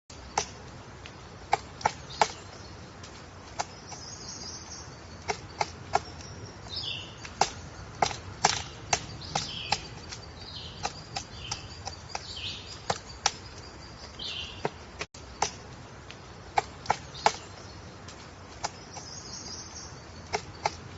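A woodpecker pecking at wood: irregular sharp single knocks, one or two a second, not a drumming roll. Short high bird chirps come in between the knocks.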